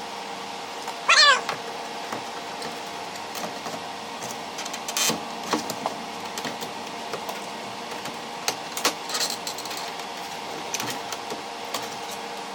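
A cat meows once about a second in, a short call falling slightly in pitch. Scattered light clicks and knocks follow as the portable air conditioner's window slider adapter is handled, over a steady low hum.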